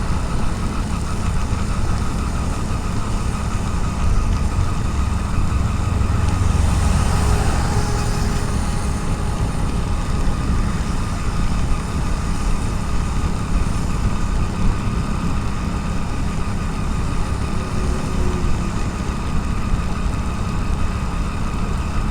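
Motorcycle engine running at steady road speed, heard through a helmet-mounted action camera in its waterproof case, with wind and rain noise over it. The sound swells for a few seconds about five seconds in.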